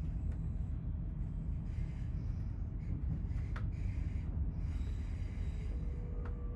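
Steady low rumble of a Class 800 train running along the line, with a few faint clicks. Faint steady tones come in near the end.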